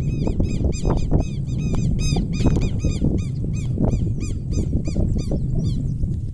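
A bird calling over and over in fast, sharp, arched calls, about four or five a second, stopping near the end, over a steady low wind rumble on the microphone.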